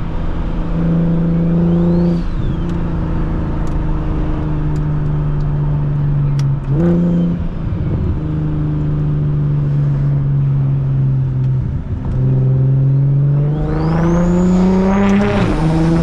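BMW 335is's single-turbo N54 inline-six with a straight-piped exhaust, pulling through several gear changes. Near the end it accelerates hard: the engine note climbs for about two seconds with a high whine rising alongside it, then drops at the next shift.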